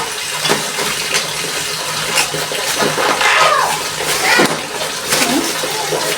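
Water running steadily from a kitchen tap, with irregular knocks and clatter as peeled green bananas (matoke) are washed in a pot.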